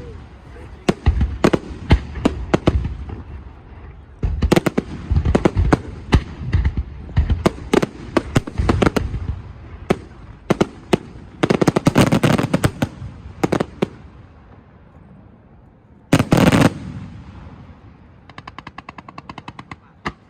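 Fireworks going off in a display: a stream of sharp bangs and dense crackling salvos, the heaviest about twelve seconds in and a short intense burst about four seconds later. Near the end comes a rapid even run of small pops.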